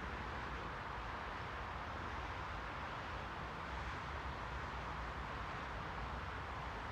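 Steady white-noise hiss, strongest in the middle range, over a low rumble, holding an even level without change.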